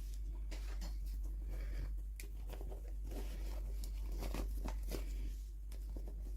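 Plastic toy packaging being handled and torn open: irregular crinkling, tearing and small clicks, over a steady low hum.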